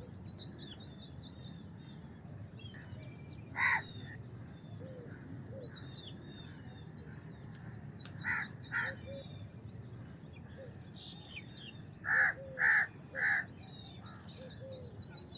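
House crow cawing: a single caw about four seconds in, two more about eight seconds in, and three in quick succession near the end. Behind the caws, smaller birds chirp rapidly and high over a low steady background noise.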